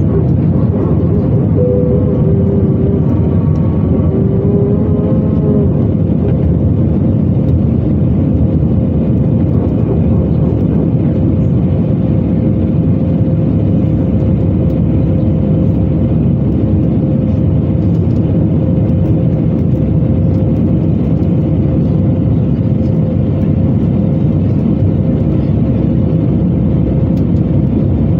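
Steady jet cabin noise of an Airbus A320-214 in flight: the rumble of its CFM56 turbofan engines and airflow, with a steady whine running through it.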